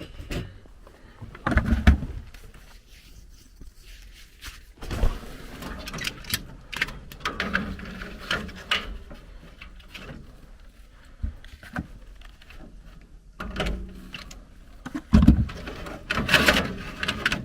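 Clicks, knocks and rattles of hands working on a gas furnace's control board and wiring, with louder thumps about two seconds in, around five seconds and near the end.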